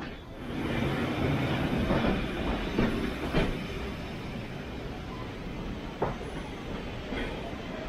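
Heritage train carriage running along the track: a steady rolling rumble with sharp clicks as the wheels cross rail joints. It is louder in the first few seconds, then steadier and a little quieter.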